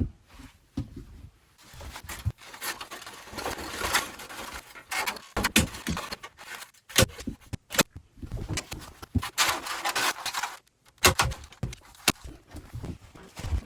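Foam rafter vents being handled and fitted between ceiling joists: irregular scraping and rustling with several sharp clicks and knocks.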